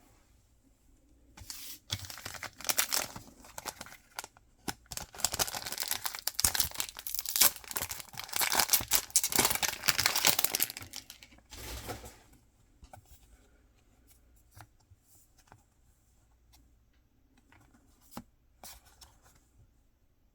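Mystery-box packaging being torn open and crinkled by hand, a dense tearing and rustling that runs for about ten seconds and then stops, followed by a few light taps and clicks.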